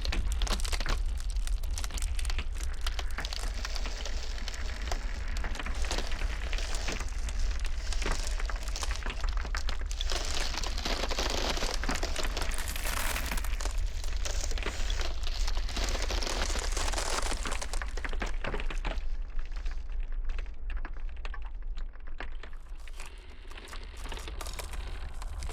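Ice cracking and crackling, many small sharp cracks coming irregularly over a steady low blizzard-wind rumble. The crackling thins out for a few seconds near the end.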